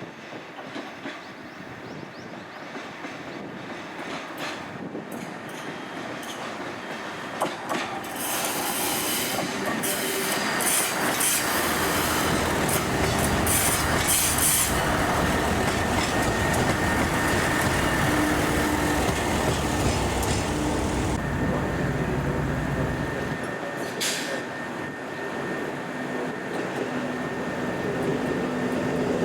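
A diesel train running along the track through the station, growing louder over the first several seconds as it approaches, then holding loud with engine hum and wheels on the rails, with a faint high squeal in the middle.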